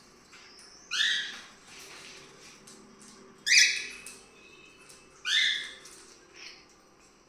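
Cockatiel calling: three loud, short screechy calls a couple of seconds apart, with fainter chirps between them.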